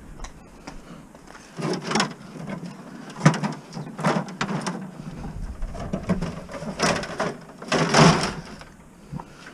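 Scrap items being handled and dumped: a series of irregular knocks, scrapes and clatters, five or six in all, the loudest near the end.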